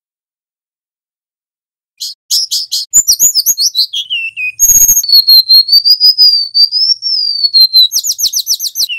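Golden-bellied gerygone (remetuk laut) singing. About two seconds in comes a burst of quick high chirps sliding down in pitch, then a brief crackle, then a long wavering high whistle of about three seconds, ending in a fast run of chirps.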